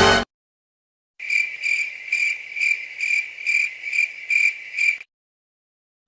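Crickets chirping: a steady run of evenly spaced high chirps, about two a second, starting about a second in and stopping abruptly after about four seconds. This is the stock 'crickets' sound effect used as an awkward-silence gag in memes.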